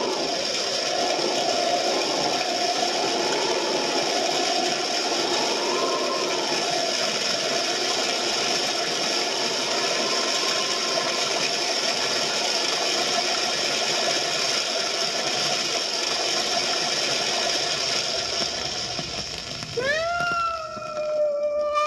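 A steady rasping, grinding sound effect with a faint wavering whine through it. About two seconds before the end, a cat starts yowling with rising, drawn-out calls.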